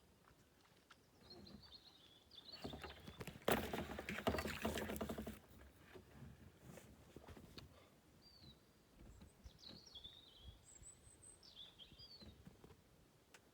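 A kayak paddle splashing and dripping in the water for about three seconds near the middle. Small birds chirp on and off throughout.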